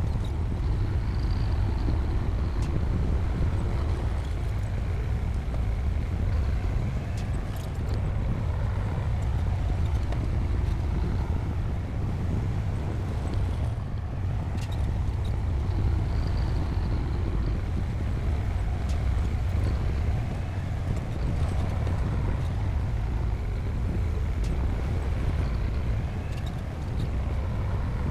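Heavy diesel engine of a D60P crawler bulldozer running steadily as it works, a deep continuous rumble with a few faint clinks. A faint high squeal comes briefly about a second in and again around the middle.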